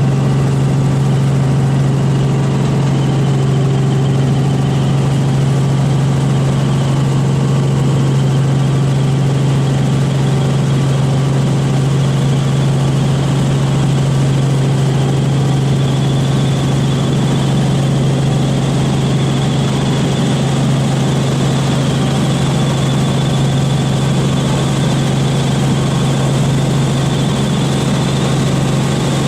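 Robinson R44 Raven II helicopter running steadily: the Lycoming six-cylinder engine and rotors make a loud, constant low drone. A faint high whine rises slightly about halfway through.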